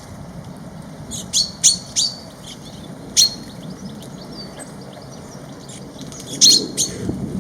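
Small birds at a feeder calling with short, sharp chirps: a cluster of several about a second in, one at about three seconds, and a few more near the end.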